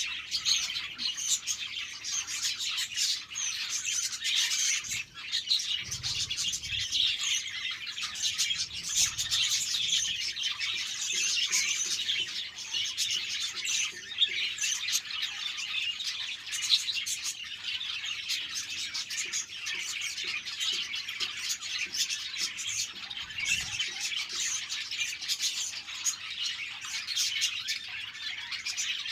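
A flock of budgerigars chattering and chirping together, a dense, continuous warble of many overlapping calls. There are a few brief low thumps.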